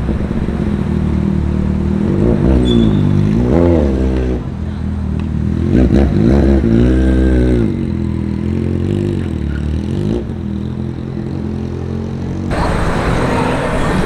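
Car engines revving on a city street: the engine note rises and falls in pitch around two to four seconds in, and again around six to eight seconds in.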